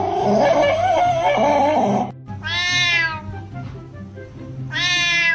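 A cat meowing: two long, arching meows, the first about two and a half seconds in and the second near the end, after a wavering, warbling cry at the start. Background music with a steady beat plays throughout.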